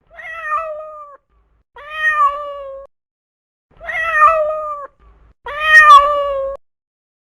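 A domestic cat meowing four times, each meow about a second long.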